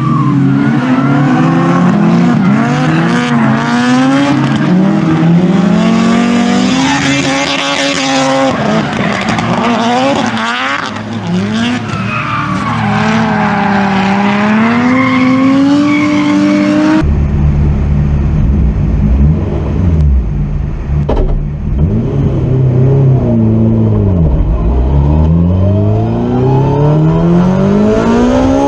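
Drift car engine revving hard, the revs rising and falling constantly as the throttle is worked through slides, with tyres skidding. About two-thirds of the way through, the sound changes abruptly to a deeper, heavier engine note.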